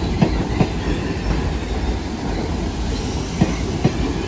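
Train cars rolling past slowly with a steady rumble, their wheels clacking over a rail joint in pairs of clicks, one pair near the start and another a little over three seconds later.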